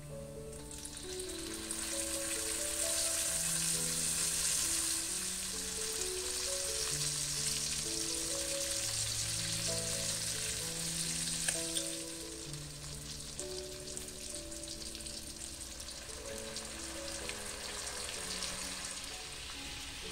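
Meat and sauce sizzling in oil in a hot wok. The sizzle swells about a second in as a red paste is spooned in, and is quieter in the second half. Soft background music with sustained notes plays throughout.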